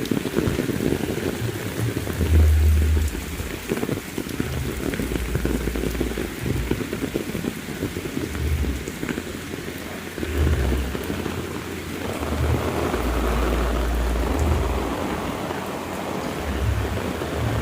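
Heavy rain falling steadily, with repeated low rumbles of thunder underneath; the rain grows louder about two-thirds of the way through.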